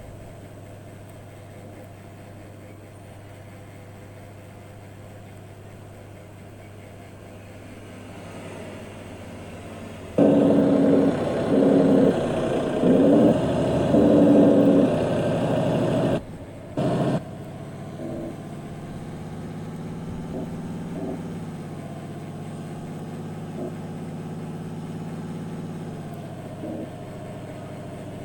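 Truck engine running steadily, with a loud series of pitched, on-and-off tones lasting about six seconds partway through, and a short loud burst just after.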